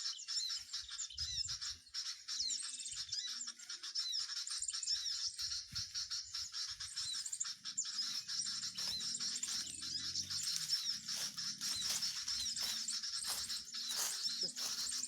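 Many small birds chirping and twittering: dense, overlapping high-pitched short calls and quick pitch slides all through, with low rustling in the second half.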